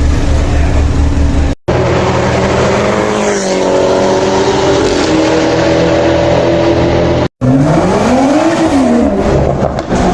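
High-performance vehicle engines and exhausts running loud, in three short clips joined by abrupt cuts. In the middle clip the pitch drops as the engine slows, and in the last it rises sharply and then falls, a rev up and back down.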